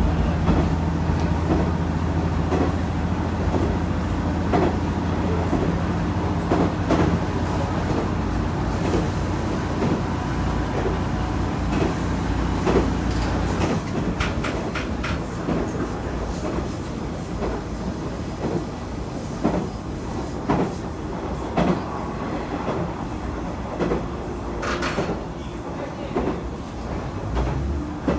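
Diesel railcar running along the line, heard from on board: a steady low engine drone with the wheels clicking over rail joints at irregular intervals. The engine hum drops away about halfway through as the train coasts, and a new low hum comes in near the end.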